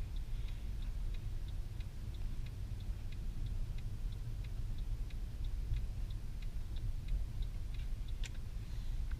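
Car turn-signal indicator ticking steadily, about three ticks a second, over the low rumble of the Mercedes C63 AMG's engine and tyres heard inside the cabin, with one sharper click near the end.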